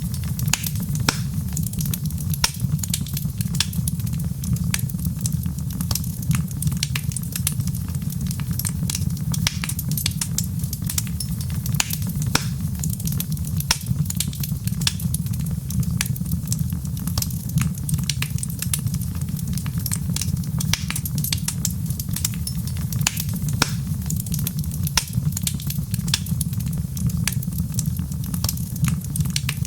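Wood fire crackling, with frequent small pops and snaps over a steady low rumble.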